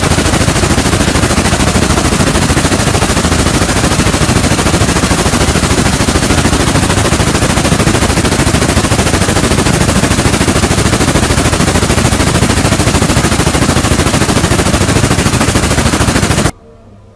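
Loud, continuous rapid-fire clatter of repeated impacts, like a pneumatic or power-driven machine hammering, which cuts off suddenly near the end.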